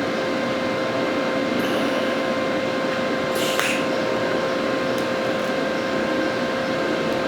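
TIG welding machine running with a steady hum, set up for tacking stainless steel. A brief hiss comes about three and a half seconds in.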